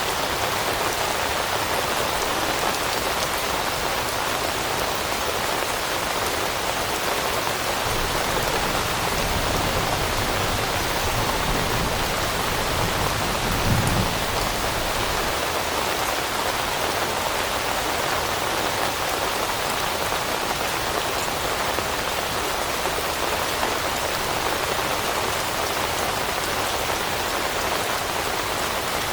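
Steady rain falling on leaves, an even hiss of many drops. A low rumble swells through the middle, with a brief dull thud about halfway through.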